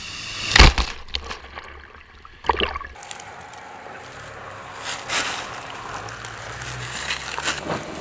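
Dacia Duster 4x4 driving off-road through water, with two loud splashes in the first few seconds and then steady sloshing over the running engine.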